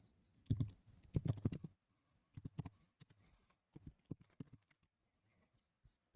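Typing on a computer keyboard: several short runs of key clicks over the first four seconds or so, then only a stray tick or two.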